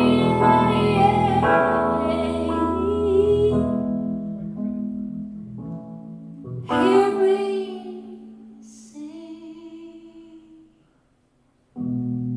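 Live band music ending a slow song: sustained instrumental chords under a wordless female vocal, then a final long sung note with vibrato about seven seconds in that fades away. After a moment of near silence, a new chord starts near the end.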